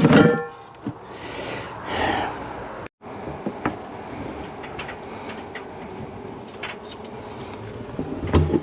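Honey bees from a disturbed colony buzzing steadily, with a few sharp clicks. The sound cuts out for a moment about three seconds in.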